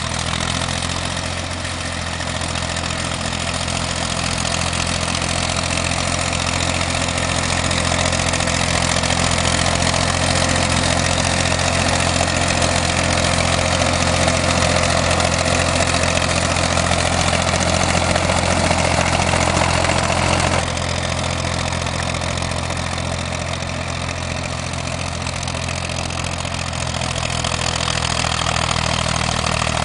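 Farm tractor's diesel engine running at a steady speed, an even low engine note with a wide noisy layer above it. The sound drops suddenly about two-thirds of the way through and swells again near the end.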